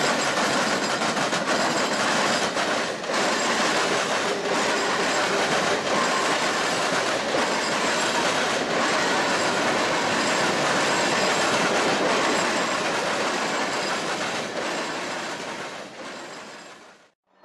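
Norfolk Southern freight train of covered hopper cars rolling past close by: a steady rumble of steel wheels on rail, with regular clickety-clack as wheelsets cross rail joints. It fades near the end and then cuts off.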